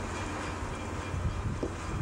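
Steady low rumble of a distant train.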